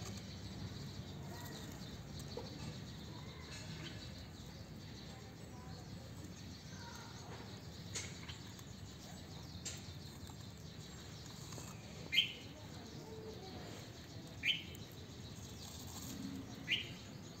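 A bird calls three times in the second half, each a short rising chirp about two seconds apart, over faint steady outdoor background noise.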